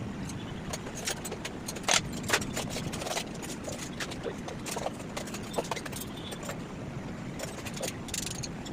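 Irregular metallic clinks and knocks, a few sharper ones near the two-second mark, over a steady low background rumble.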